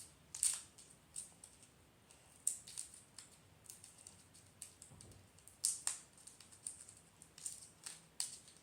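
A Mentos roll being opened by hand: irregular crinkles and clicks of its wrapper, some louder than others.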